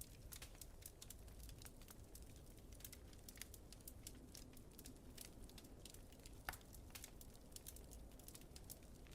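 Faint wood fire crackling in a fireplace: irregular small pops and snaps, with one sharper snap about six and a half seconds in, over a low steady rumble.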